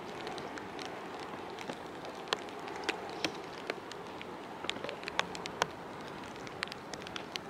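Rain falling, a steady hiss with many irregular sharp drops ticking close by.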